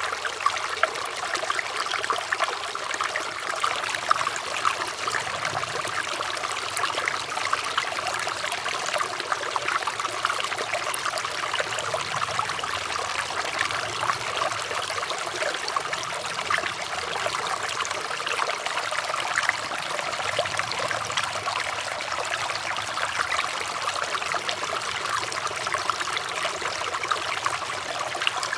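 Running water trickling and babbling steadily, a continuous dense patter of small splashes with no pauses.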